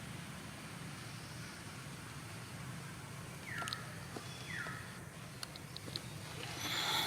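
Two short animal calls, each falling in pitch, about a second apart in the middle, over a steady low hum, with a few light clicks and a brief louder rustle near the end.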